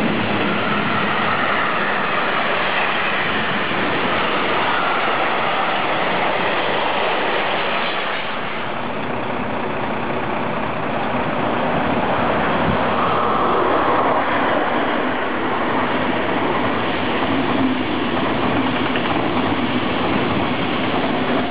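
Freight train of hopper and tank wagons rolling past, its steel wheels running on the rails. About 8 seconds in the sound changes, and a Deutsche Bahn ICE high-speed train approaches and runs past.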